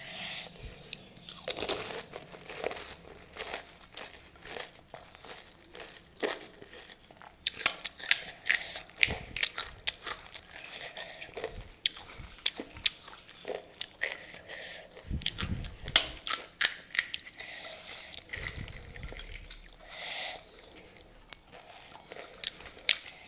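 Close-up chewing of pani puri, the crisp hollow puri shells crunching between the teeth. The crunches come in clusters of rapid cracks with short pauses between mouthfuls.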